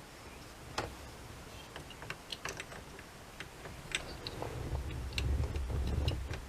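Irregular light clicks and taps, like small plastic parts being handled and fitted, with a low rumbling handling noise building in the last couple of seconds.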